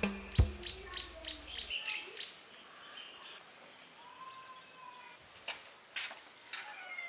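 A bit of music runs out in the first couple of seconds, then birds chirping and calling, with one short held call around the middle and several sharp clicks near the end.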